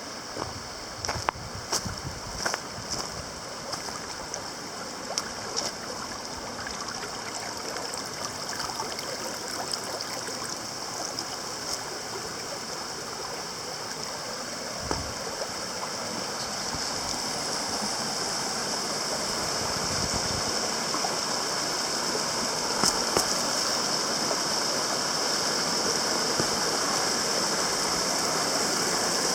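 Running water of a creek or waterfall: a steady rushing that grows gradually louder, with a few sharp clicks in the first few seconds.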